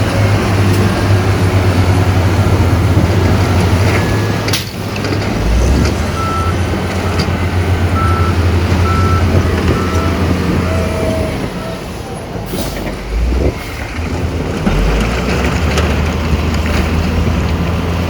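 Heavy diesel engines of a dump truck and bulldozer running steadily, with a few short high beeps in the middle and a brief hiss about two-thirds of the way in.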